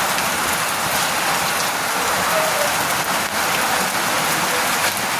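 Steady hiss of heavy rain falling, which cuts off suddenly near the end.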